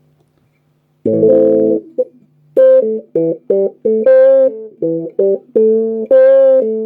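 Electric guitar played through a home-built effects circuit with an LDR and a 20k pot: a strummed chord about a second in, then a short riff of single notes, with a honky tone.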